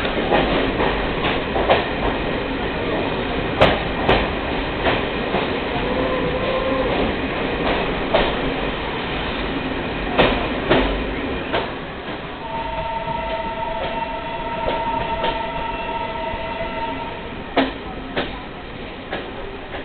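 Train running along the rails: a steady rumble broken by irregular sharp wheel knocks. Midway a steady tone of several pitches holds for about four seconds.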